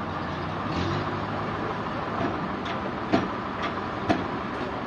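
Sawmill machinery running steadily with a low hum. Several sharp knocks come in the second half, the two loudest about a second apart.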